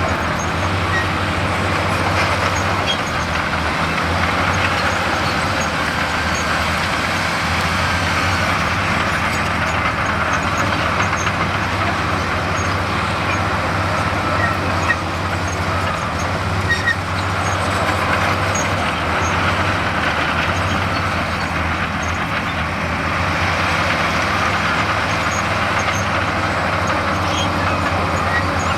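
Heavy diesel earthmoving machinery running steadily under load, with a couple of brief knocks about halfway through.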